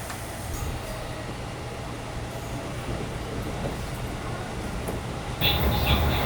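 JR local train running with a steady low rumble. About five seconds in, the sound abruptly gets louder, with a heavier rumble and a high whine.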